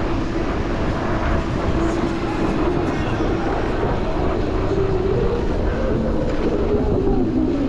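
Downtown street traffic heard from a moving bicycle, with a steady rumble on the microphone and a wavering hum that drifts up and down in pitch.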